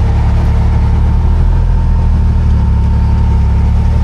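Off-road 4x4's engine running steadily at low revs, loud and close.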